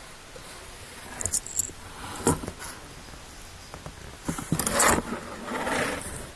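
Bursts of rustling and scraping: a few short ones about a second in and just after two seconds, and the loudest run in the second half.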